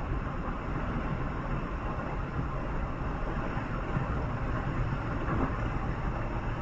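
Steady rumble of a vehicle driving along a highway: road and engine noise that holds even, with no separate events.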